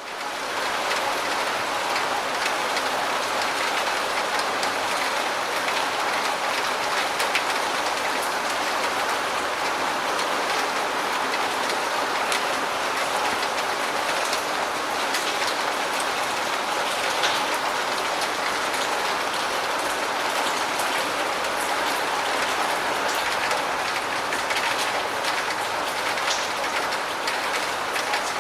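Steady, heavy rain: a dense even patter with individual drops ticking sharply through it.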